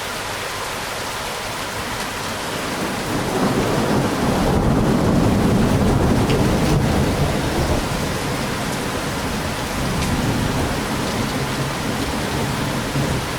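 Steady rain with a rolling rumble of thunder that swells about three seconds in, is loudest a few seconds later, then eases to a lower rumble under the rain.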